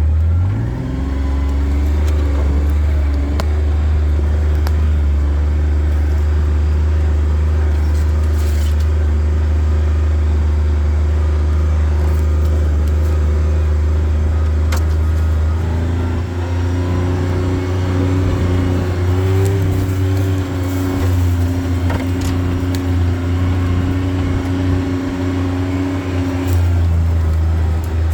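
A vehicle's engine running steadily while driving. It revs up just at the start, and its note shifts about halfway through and again near the end.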